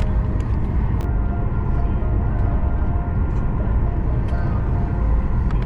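Steady low rumble of jet airliner noise, with faint steady tones above it and a few light clicks.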